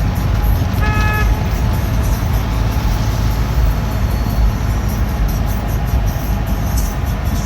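Steady road-traffic rumble with a vehicle horn tooting once, briefly, about a second in.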